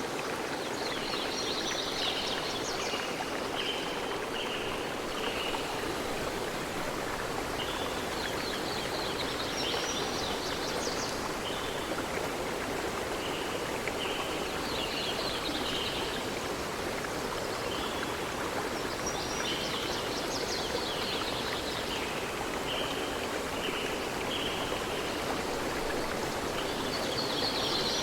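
Flowing stream running steadily, with a songbird repeating a short song every several seconds: a quick high jumble of notes followed by a string of four or five short, lower notes.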